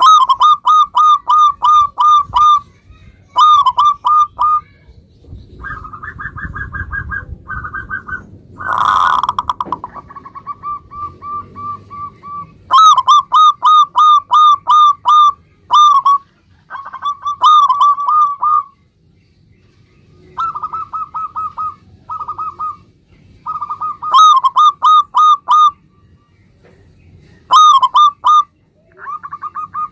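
Zebra doves (perkutut) cooing: phrase after phrase of rapid, short staccato notes, some phrases louder and some fainter, as from more than one bird. A short, loud rasping noise breaks in about nine seconds in.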